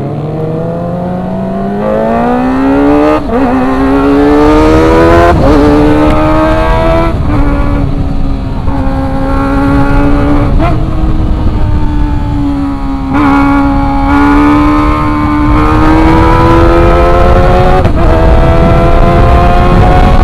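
Kawasaki ZX-25R's 250 cc inline-four engine under way at high revs, rising in pitch over the first three seconds and then holding a high, steady note broken by short dips every two or three seconds.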